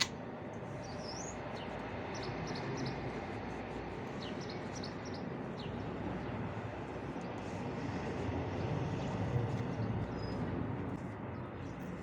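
A few short bird chirps and twitters, clustered about a second in and again around the middle, over a steady low outdoor background noise.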